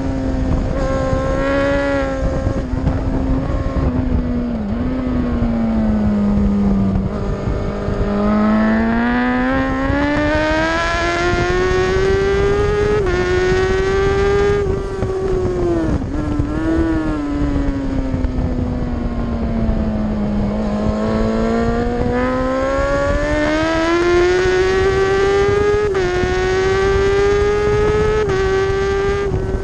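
A racing motorcycle's engine heard from on board at full race pace: the revs sink twice as the bike slows for corners and climb back under acceleration, with brief dips at the gear changes, over a steady rush of wind.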